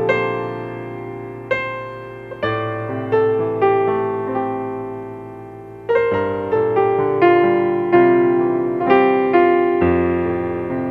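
Slow, soft piano music: single notes and chords struck and left to ring and fade.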